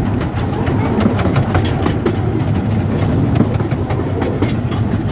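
Small-gauge railway train running along the track: a steady low rumble of the wheels with frequent irregular clicks and rattles from the rails and carriages.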